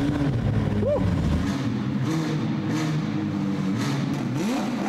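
A McLaren supercar's twin-turbo V8, just started, running at idle with two short blips of the throttle: one about a second in and one near the end.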